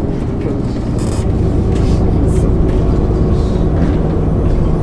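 MAN ÜL 353 intercity bus's diesel engine running steadily under way, heard from inside the bus with a heavy low rumble; it gets a little louder about a second in, when a short hiss also sounds.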